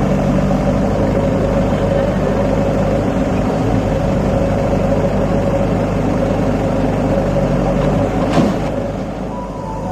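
A tractor's diesel engine running steadily under load while pulling a fully loaded soil trolley. A short sharp knock comes about eight seconds in, and the engine note dips for a moment near the end.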